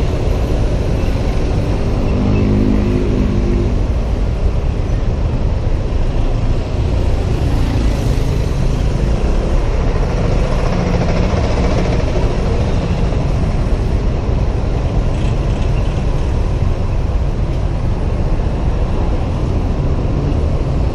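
Wind rushing over a helmet-camera microphone while riding a Honda PCX 125 scooter through city traffic, with engine and traffic noise underneath. For a couple of seconds early on, a steady engine hum rises above it.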